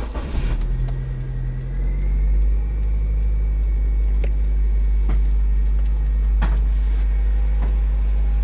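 Nissan Grand Livina engine catching as it starts, its pitch settling within about two seconds into a steady idle. A few sharp clicks sound over the running engine.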